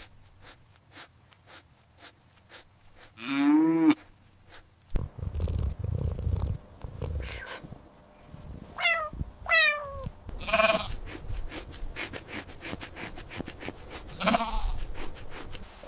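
A series of different recorded animal calls, one after another: a loud drawn-out call rising and falling in pitch about three seconds in, two quick descending cries around nine seconds, and more calls near the end.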